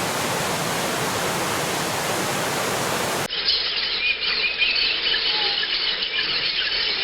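Steady rushing of a waterfall that cuts off abruptly about three seconds in, giving way to birds chirping over a softer background of flowing water.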